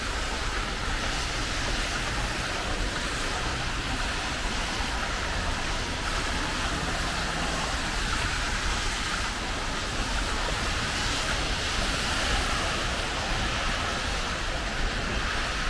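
Heavy rain falling steadily and pattering on an umbrella overhead, with a low rumble underneath.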